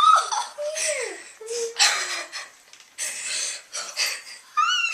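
Children shrieking, squealing and laughing breathlessly with excitement: a run of short, airy high cries, the loudest at the start.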